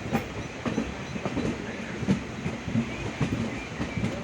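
Indian Railways passenger train running along the track, heard from aboard a coach: a steady rumble with the wheels clattering over rail joints in repeated knocks.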